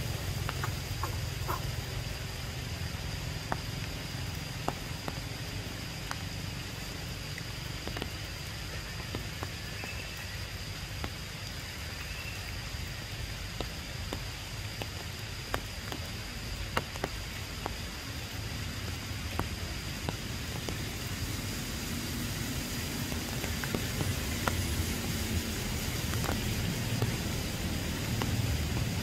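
Rain falling on forest foliage: a steady hiss with scattered sharp drip ticks over a low rumble, and a thin steady high tone.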